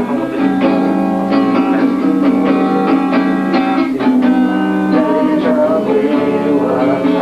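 Guitar playing an instrumental passage without singing: plucked notes and chords over sustained tones.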